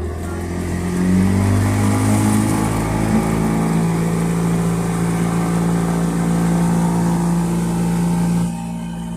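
Motorboat engine revving up about a second in, running steadily under throttle, then easing off near the end.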